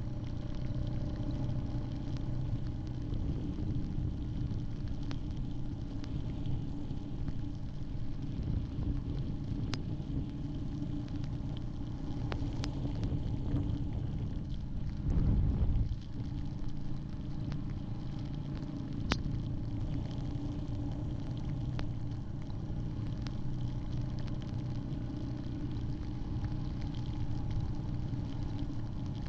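Yamaha Grizzly 700 ATV's single-cylinder engine running steadily under way, with a constant low rumble and scattered small clicks. A brief louder low burst comes about halfway through.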